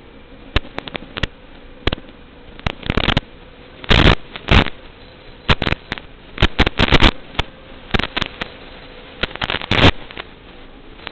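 Irregular sharp cracks and knocks, some in quick clusters and a few longer ones, over a faint steady hum.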